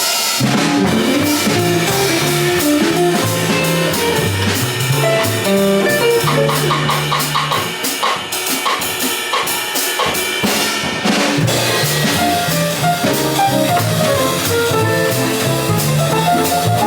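Live jazz combo playing, with the drum kit prominent (bass drum, snare and rimshots) over a moving bass line and other pitched instruments.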